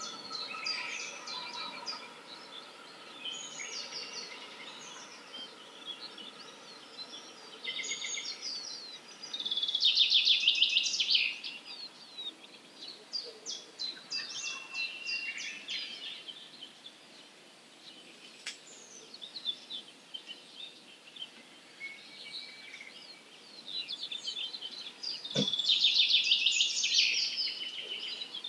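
Early-morning chorus of several wild songbirds singing and chirping, with two loud spells of rapid, dense twittering, about ten seconds in and again near the end.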